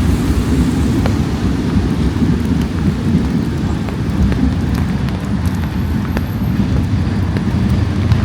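Rainy city street ambience: a steady low rumble under the hiss of rain, with scattered light ticks of drops.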